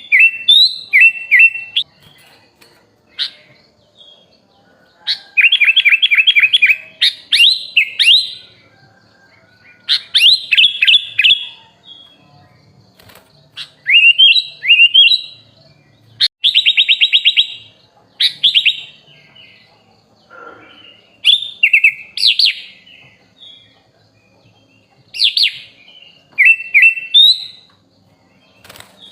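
Kutilang (sooty-headed bulbul) singing loudly in short separate phrases of rapid chirps, a new phrase every two or three seconds with brief pauses between, some notes sweeping up or down.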